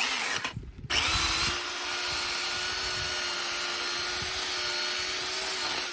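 Electric power saw cutting oak firewood: a short burst, a brief stop, then about five seconds of steady motor whine with a constant pitch.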